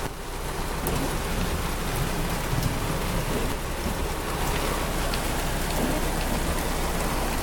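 Heavy rain drumming steadily on a car's roof and windshield, heard from inside the car, with scattered individual drops ticking.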